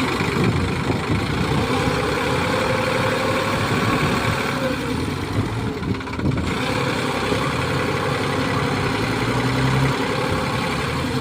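Sonalika 745 DI tractor's diesel engine running steadily.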